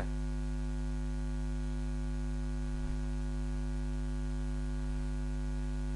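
Steady electrical mains hum, a low drone with a buzz of many overtones, with a faint click about three seconds in.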